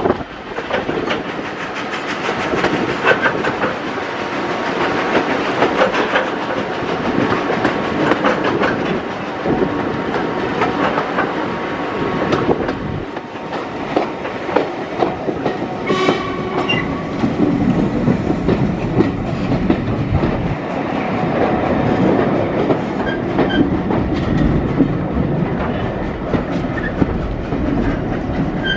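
British Railways Mk1 passenger coach running behind a steam locomotive, heard from aboard: a steady rumble and rattle with the wheels clattering over the rail joints. A brief higher tone sounds about halfway through.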